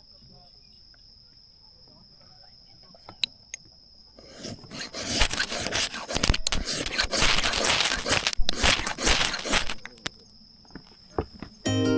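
Insects trilling steadily in one high tone, broken about four and a half seconds in by some five seconds of loud, rough hissing and rustling noise with brief breaks; then the trill returns.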